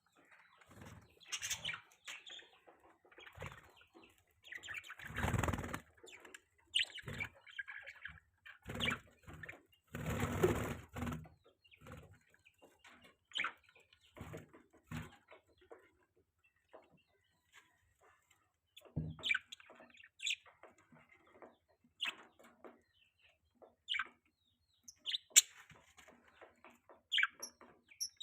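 Budgerigars giving scattered short chirps, with a few longer rustling bursts of wing flapping near the middle.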